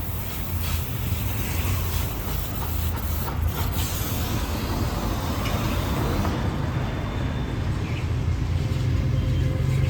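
Kawasaki Z250's parallel-twin engine running with its rust-damaged exhaust removed, a steady engine sound that grows gradually louder toward the end.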